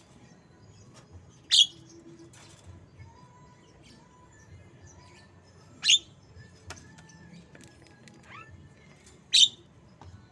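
Javan myna (jalak kebo) calling in imitation of white-rumped shama song: three loud, sharp, very short calls three to four seconds apart, with faint chirps between them.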